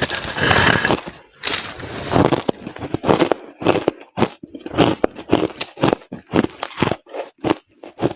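White crushed ice being bitten and chewed: a couple of long dense crunches, then a run of short chewing crunches about two to three a second.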